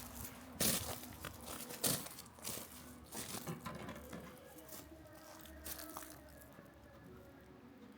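Crunching and rustling, with two sharp crunches in the first two seconds, then softer, quieter rustling.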